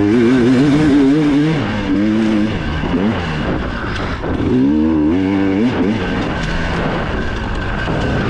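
Dirt bike engine heard on board during a race, the throttle opening and closing so that the engine pitch climbs and drops several times, with a steady rush of wind and track noise over it.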